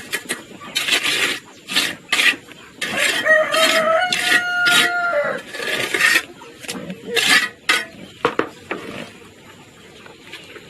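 Repeated rough scraping strokes, irregular and strongest in the first six seconds. A rooster crows once in the middle, its call rising and then holding for about two seconds.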